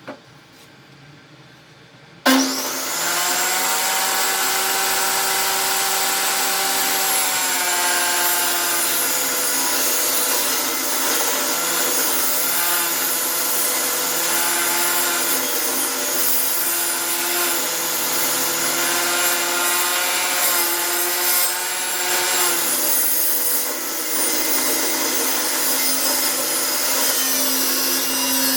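Table saw switching on about two seconds in, then running steadily while ripping a wooden fence picket lengthwise. The tone of the blade shifts up and down as the board is fed through.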